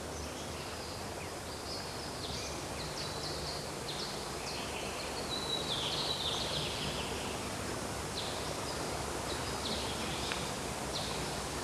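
Outdoor ambience: small birds chirping and twittering in short calls, several falling in pitch, over a steady background hiss.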